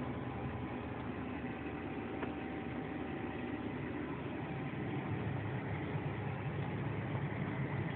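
Combine harvester's diesel engine running steadily, getting a little louder about five seconds in.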